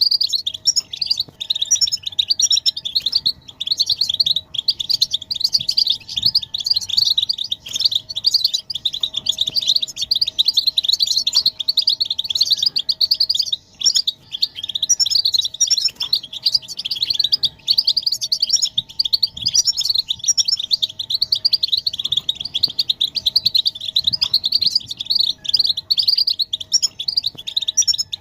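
Several European goldfinches twittering and chattering without pause, rapid overlapping chirps and trills. These are the excited mating and readiness calls used to stir a male goldfinch into song. A faint steady hum runs underneath.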